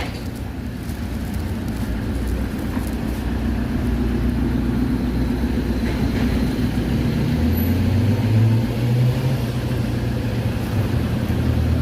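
Street traffic: a motor vehicle's engine running close by, a steady low drone that shifts higher about seven seconds in.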